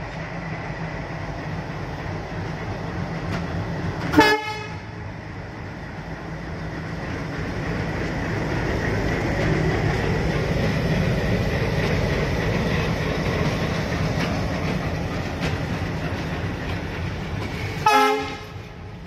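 A WDM-3D diesel-electric locomotive, with its 16-cylinder ALCO 251 engine, hauls a loaded freight train past with a steady engine rumble. The wagons' wheels run over the rails, growing louder in the middle as the wagons pass close. Two short horn toots sound, one about four seconds in and one near the end.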